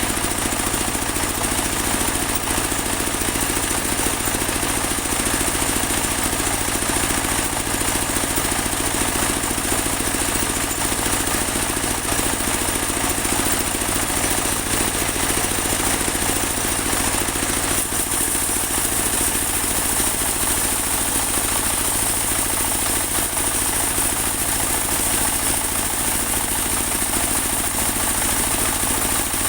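Portable bandsaw sawmill running steadily while sawing a large teak log: a constant engine drone with a high, steady hiss that grows stronger a little past halfway.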